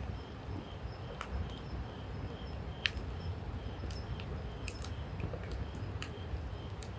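Wood campfire crackling: scattered sharp pops, the loudest about three seconds in, over a low steady rumble.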